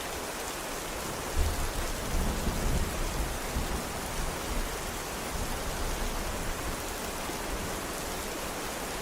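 Steady rain falling, with a low rumble of thunder that starts suddenly about a second and a half in and fades away over the next few seconds.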